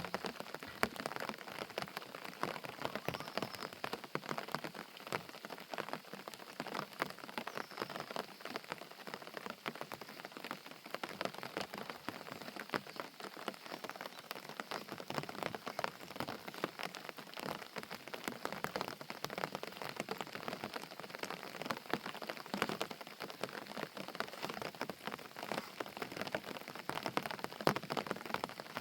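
Steady rain falling, a dense patter of many small drops striking surfaces.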